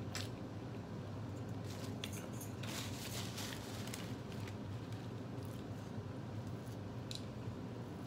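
Close-up eating sounds: quiet chewing and wet mouth noises with a few small clicks, and a short rustle about three seconds in, over a steady low hum.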